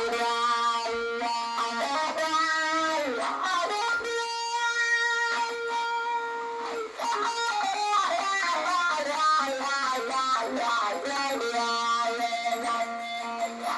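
Electric guitar played through an effects rig, a melodic lead line with bent notes, one long held note in the middle, then busier phrases.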